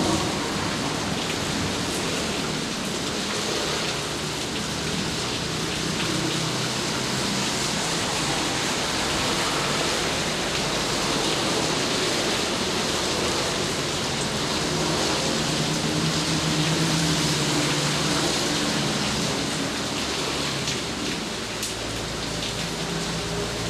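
Steady heavy rain pouring down, an even hiss of falling water with scattered drops ticking on a surface.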